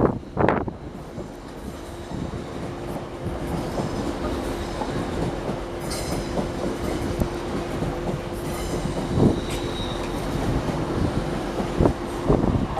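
A train running through the station with a steady whine and rumble, and brief high wheel squeals about halfway through and again a little later. Wind thumps on the microphone at the start and near the end.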